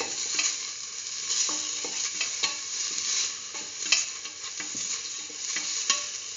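Sliced onion, garlic, dried red chillies and tomato sizzling in oil in a stainless steel pan, with a spatula scraping and knocking against the metal as they are stirred; the sharpest knocks come about four and six seconds in.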